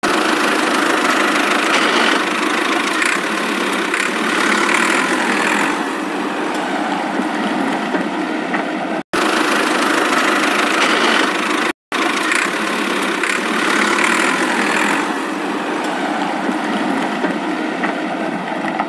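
Vehicle engine running steadily, broken by two brief gaps about nine and twelve seconds in.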